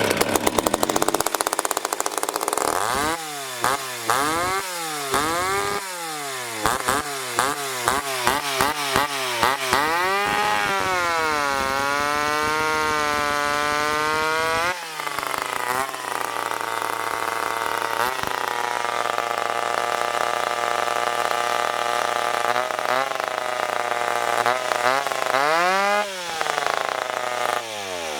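Ported McCulloch Pro Mac 10-10 two-stroke chainsaw running. For the first ten seconds the throttle is blipped repeatedly in short rises and falls. Then it is held at high revs for about four seconds, drops suddenly to a lower steady speed, and revs once more near the end before falling away.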